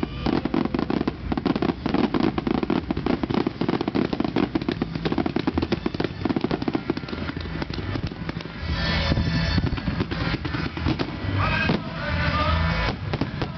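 Aerial fireworks bursting and crackling in rapid, dense succession. About two-thirds of the way in, music comes in beneath the bangs.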